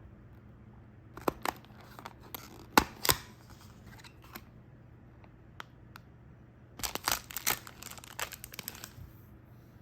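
Snack packaging being handled and opened: crinkling and tearing of a plastic or paper wrapper, in two bursts of crackles with a pause between.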